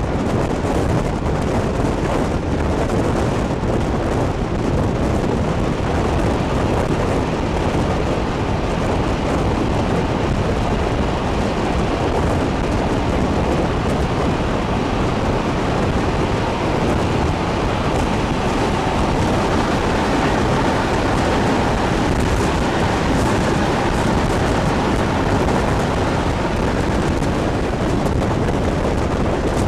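Moving passenger train heard from an open carriage window: steady wind buffeting the microphone over the train's running rumble.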